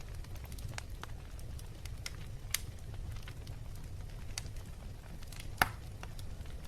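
Wood fire crackling in a fireplace: scattered small crackles over a low steady rumble, with a sharp pop about two and a half seconds in and a louder pop about a second before the end.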